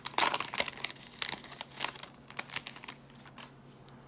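Foil wrapper of a pack of baseball cards being torn open, crinkling, with the crackling easing off after about two and a half seconds into a few faint clicks as the cards come out.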